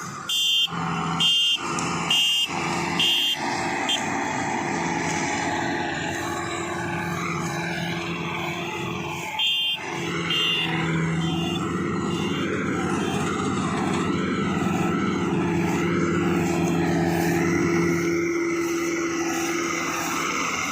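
Engine of a rice harvesting machine running steadily, with a hum that rises and falls a little. Several short high beeps sound in the first few seconds and again about ten seconds in.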